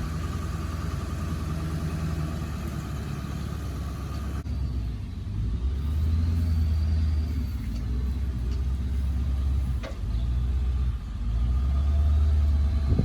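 A vehicle engine running with a low drone, growing louder in several stretches, most strongly near the end.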